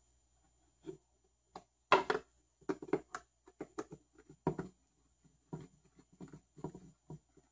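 Irregular clicks and taps from handling small screws and tools while the impact wrench's housing is taken apart. The sharpest knock comes about two seconds in, followed by a busy run of light taps.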